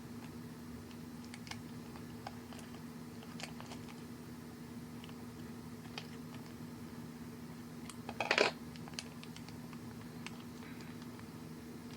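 Faint, scattered small clicks and handling noises over a steady low hum, with a short, louder cluster of crisp clicking or rustling about eight seconds in.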